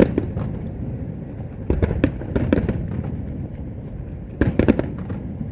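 Fireworks bursting overhead: three clusters of sharp bangs, about two seconds apart, over a continuous low rumble from the display.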